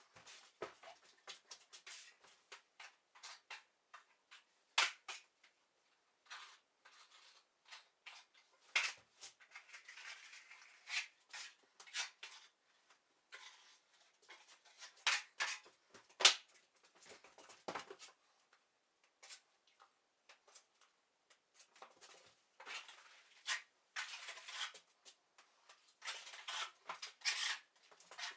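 Hand tools at work, making irregular short scrapes and clicks with brief pauses between them.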